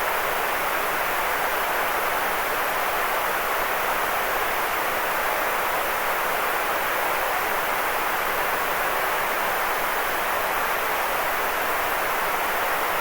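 Steady white noise for sleep: an even, unbroken hiss that never changes, fullest in the middle range.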